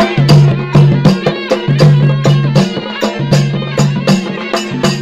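Traditional folk music led by drums: quick, even drum strokes over a steady low tone.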